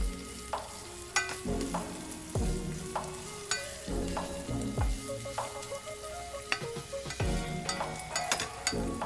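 Onions and ginger-garlic paste sizzling in hot mustard oil while being stirred, the spatula scraping and knocking against the pan about once a second.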